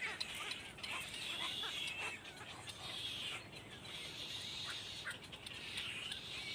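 Birds chirping: many high, overlapping cheeps and short calls, continuous throughout.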